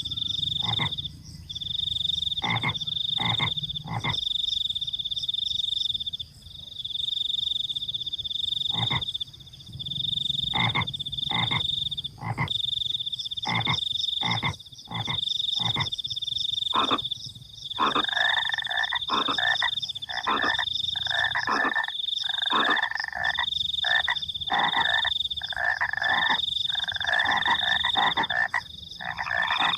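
A night chorus of frogs croaking, at first in short single calls and quick runs, then in a denser, faster chorus from a little past halfway. Over it, crickets keep up a high-pitched trill in spells of a second or two with short breaks.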